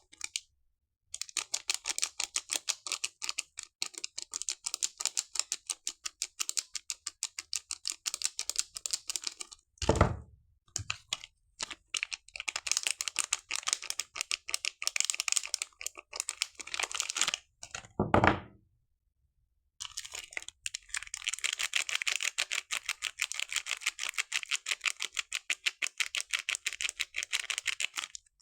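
Crinkling wrapper of a bar of soap being unwrapped, with long stretches of rapid crackling and short pauses between them. A dull thud comes about ten seconds in and another at about eighteen seconds.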